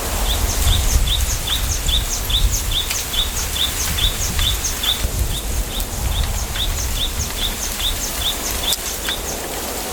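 A bird calling a rapid, even series of short, high chirps that drop in pitch, about three a second, over a low rumble of wind.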